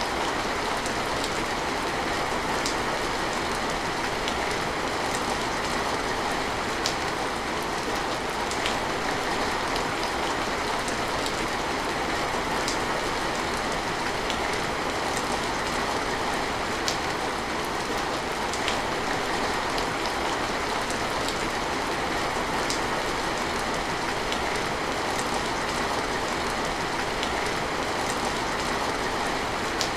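Steady rain falling, an even hiss with scattered sharper ticks of single drops striking close by.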